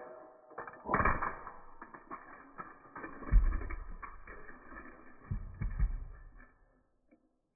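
Creaking and clanking of engines coming in fast, with heavy thumps about a second in, about three seconds in and twice more near the end, then dying away.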